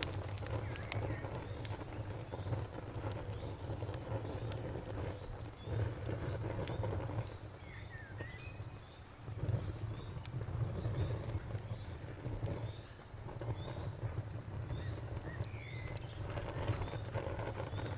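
Campfire crackling with sharp scattered pops, under a steady, evenly pulsed chirping of crickets and occasional short calls from frogs.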